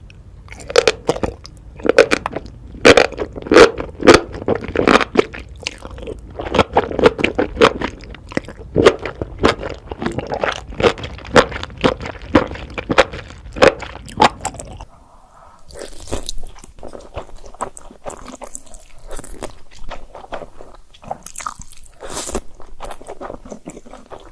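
Close-up eating sounds: loud, crunchy bites and chewing of crisp food, many strokes in quick succession. About two-thirds of the way through it turns quieter, with lighter, sharper chewing clicks.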